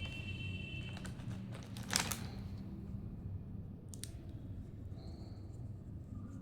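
Clicks and taps from handling plastic toys and packaging during an unboxing: a few sharp clicks, the loudest about two seconds in and another about four seconds in, over a low steady hum.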